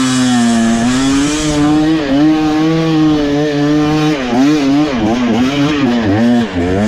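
Dirt bike engine running at high revs with the pitch wavering. About halfway through, the revs rise and fall in quick throttle blips, about two a second.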